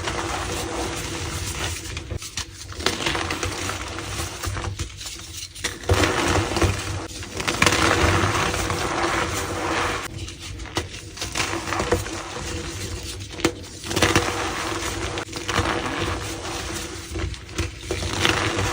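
Green gym chalk balls being crushed, crumbling in repeated gritty crunches with squeaks from the packed powder. Several runs of crunching are broken by short pauses.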